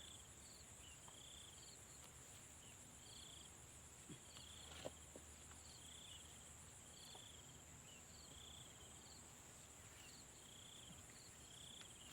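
Faint insect chorus: a steady high-pitched trill with a second insect chirping in a regular pulse about once a second, and a couple of faint knocks near the middle.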